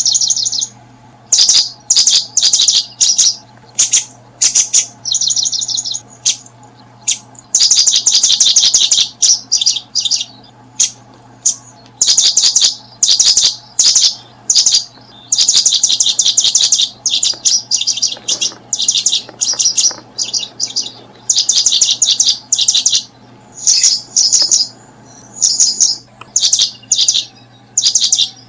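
Small birds chirping in quick, repeated bursts of high, rapid trilled notes with short pauses between, over a faint steady low hum.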